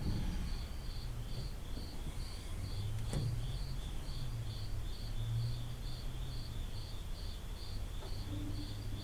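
Crickets chirping in a steady, even rhythm of a few chirps a second, over a faint low hum, with a single sharp click about three seconds in.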